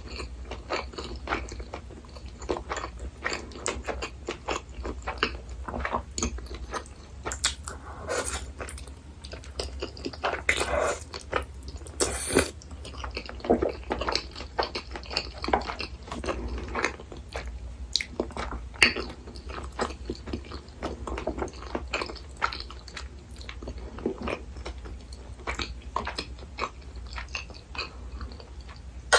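Close-miked eating sounds: irregular wet chewing, biting and mouth smacks, with a steady low hum under them.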